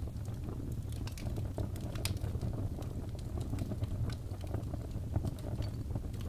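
Fireplace crackling: a steady low rumble of burning wood with many irregular sharp pops and snaps.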